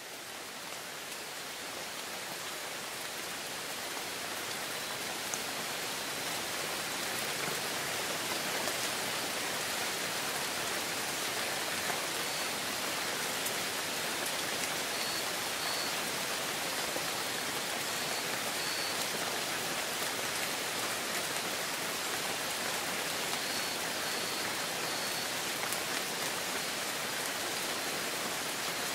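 Heavy rain falling steadily in a dense even hiss of drops, fading in over the first few seconds.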